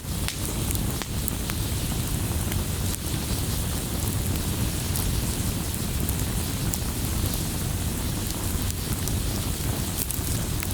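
Wood fire burning in a fireplace: frequent sharp crackles and pops over a steady hiss and a low rumble of the flames.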